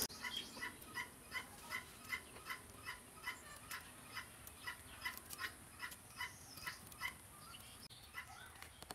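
Faint bird calls repeating evenly, nearly three short notes a second.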